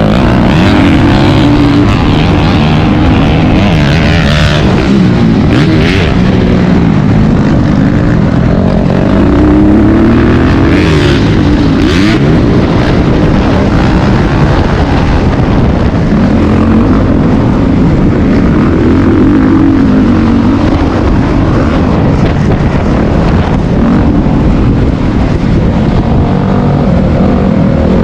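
Dirt bike engine running hard on a motocross track, its pitch rising and falling over and over as the throttle is opened and rolled off.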